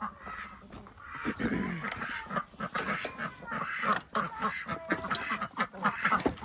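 A mixed flock of free-range ducks, chickens and turkeys calling over one another in a busy run of short calls.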